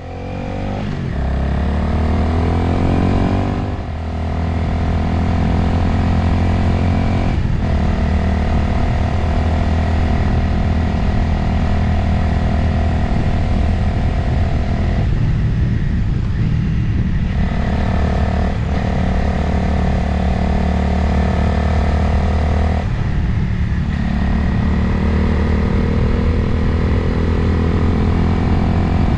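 Motorcycle engine under way, heard from the rider's position, with wind noise. The engine note rises over the first few seconds, then holds steady, breaking off briefly a few times along the way.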